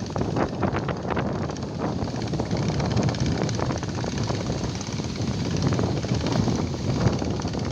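Wind buffeting the microphone over the continuous rush of big surf waves breaking.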